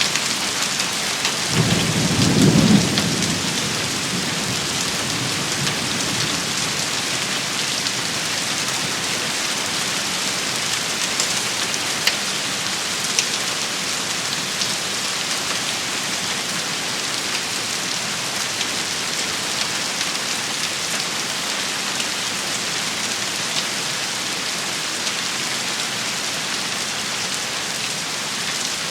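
Steady rain shower hissing as it falls on surfaces, with scattered drop ticks. About two seconds in, a brief low rumble of thunder stands out as the loudest sound.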